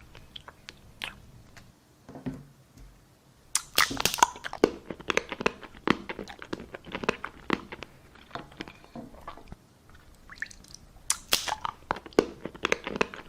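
Close-miked ASMR eating: a person biting and chewing, with sharp crunches and wet mouth clicks. They start sparse and grow dense and loudest about four seconds in and again near the end.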